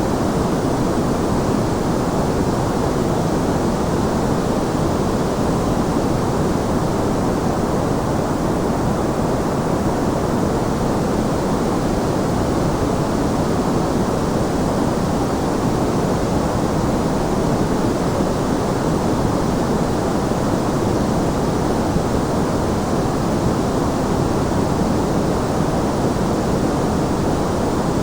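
Steady white-noise track: an even, unchanging hiss with most of its weight in the low and middle range and no separate sounds in it.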